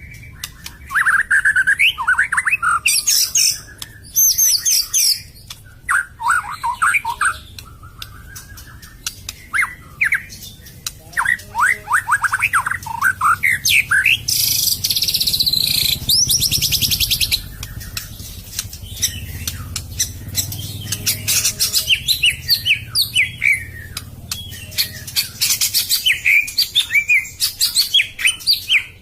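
White-rumped shama (murai batu) singing a loud, varied song of whistled phrases and fast runs of notes, with a burst of harsh, rasping notes about halfway through. This is a lure song (pikat) used to draw in wild shamas.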